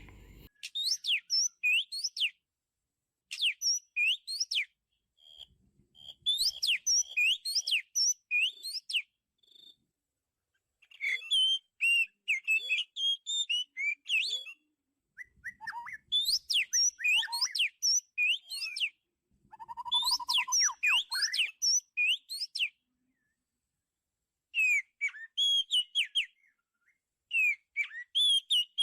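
Oriental magpie-robin singing: bursts of varied, high, rapidly gliding whistled phrases, each a second or two long, separated by short silences.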